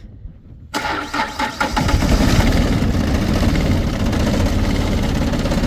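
Rural King RK24 compact tractor's diesel engine cold-started after glow-plug preheat: the starter cranks for about a second, then the engine catches and settles into a steady, fast-pulsing run.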